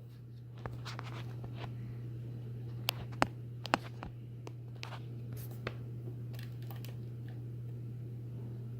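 Harbor Breeze DuBois ceiling fan running with a steady low motor hum, with scattered light clicks, the loudest three coming about three to four seconds in.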